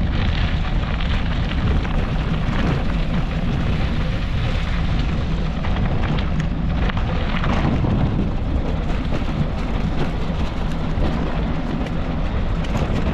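Steady rush of wind on the microphone mixed with tyre and trail rumble from a mountain bike riding dirt singletrack.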